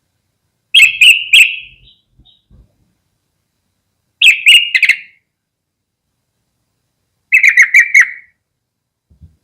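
Yellow-vented bulbul singing: three short phrases of rapid notes, about three seconds apart, the last a little lower in pitch.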